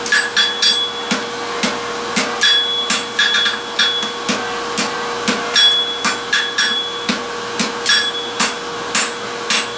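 Hand hammer striking hot steel on an anvil in a steady rhythm of about two to three blows a second, some blows followed by a short high ring, as a forged ring is worked toward a square. A steady hum runs underneath.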